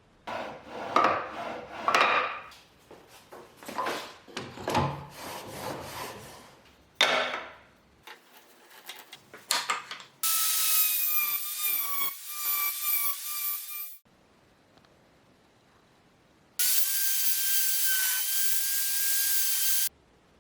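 Irregular strokes of a tool working wood, then a small power tool's motor running twice for a few seconds each with a steady high whine, each run starting and stopping abruptly.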